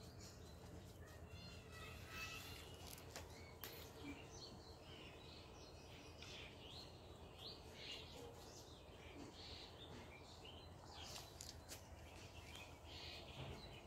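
Near silence: faint, scattered bird chirps over a faint steady low hum.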